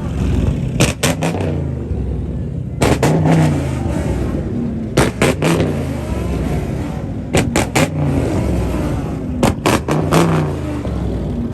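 Car engine revved hard over and over, a rev about every two seconds, each one with a quick cluster of sharp cracks.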